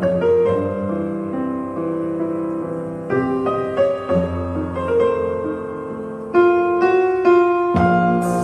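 Gentle background piano music: sustained notes and chords, swelling louder about six seconds in.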